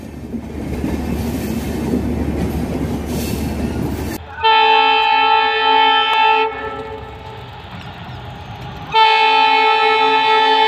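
A passing train rumbles on the rails, then cuts off abruptly about four seconds in. An Indian Railways train horn follows with two long multi-tone blasts: one lasting about two seconds, and a second starting near the end that is still going.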